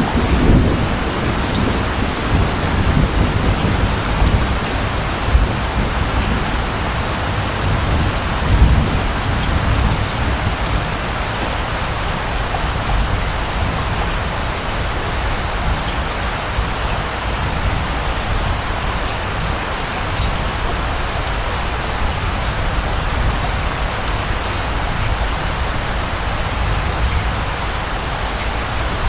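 Steady rain falling, with distant thunder rumbling low in the first few seconds and once more at about eight seconds in, then fading to rain alone.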